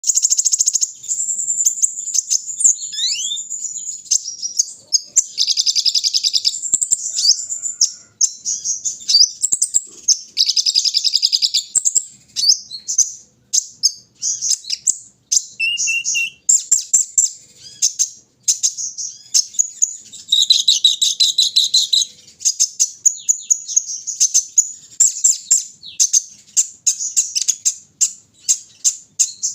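Kolibri ninja (a sunbird) singing continuously: rapid high-pitched chirps, twittering trills and short buzzy phrases with only brief pauses.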